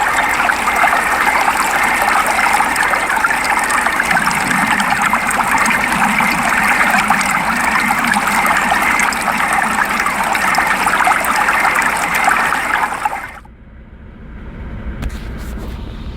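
Steady rain, an even dense hiss, cutting off about thirteen seconds in. After it comes a much quieter low rumble with a few faint clicks.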